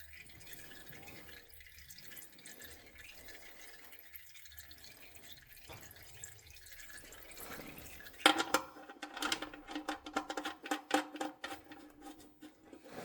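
Old engine oil dripping faintly from a 1979 Peugeot 504's diesel engine into a full drain pan. About eight seconds in comes a quick run of metallic clinks and rattles with a ringing tone, the loudest part.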